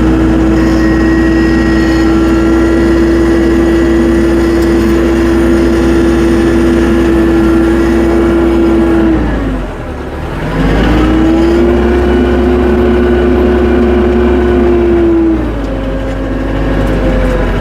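Tractor engine running steadily at high revs. About halfway through the revs drop sharply and climb back within a second. Near the end they settle lower.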